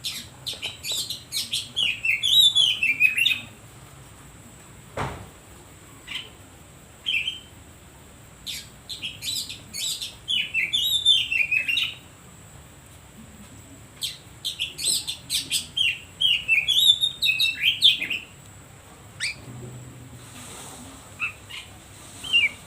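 Oriental magpie-robin (kacer) singing in four bursts of rapid, varied whistles and chirps with sliding notes, separated by short pauses. There is a single click about five seconds in.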